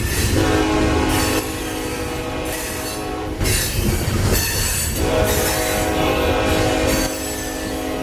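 Freight locomotive air horn sounding two long blasts, a steady multi-note chord, over the low rumble of the passing train.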